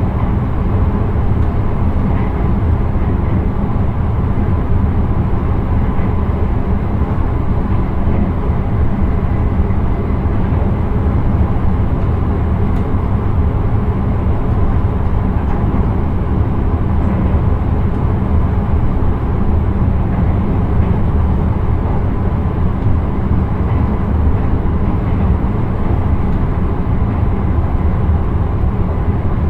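Intercity train running along the track, heard from inside the driver's cab: a steady, loud low rumble of wheels and running gear on the rails.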